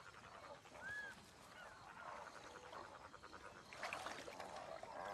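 Faint bird calls: a short rising-and-falling call about a second in, then a rapid rattling series, with a brief rush of noise near the end.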